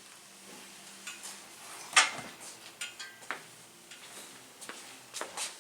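Scattered light clicks and taps of small objects being handled on a tabletop, with one sharper click about two seconds in.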